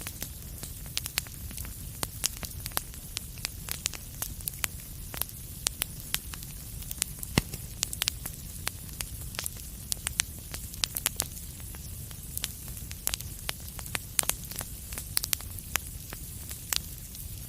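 Wood fire in a fireplace crackling: frequent irregular sharp pops and snaps over a steady low rumble and hiss of burning.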